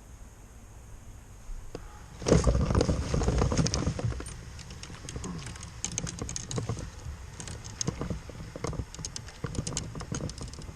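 A hooked bass fought beside a kayak: a sudden burst of splashing about two seconds in, then a run of quick rattling clicks.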